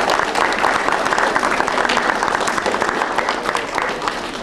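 Audience applauding: dense clapping that starts to fade near the end.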